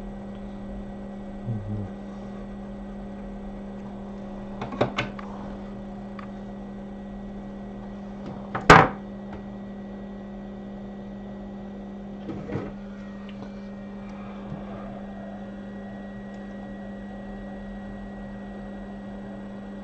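Steady electrical hum of running workbench equipment, with a few scattered knocks and clicks of tools being handled; the loudest is a single sharp knock about nine seconds in.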